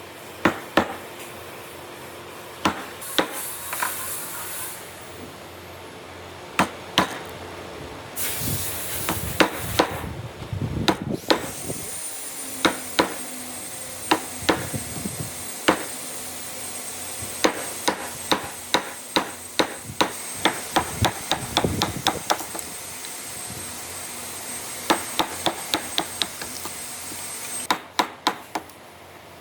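Hammer striking a chisel to chop out a hand-cut dovetail joint in wood: a run of sharp, irregular blows, one to three a second, with a couple of short rasping bursts between them.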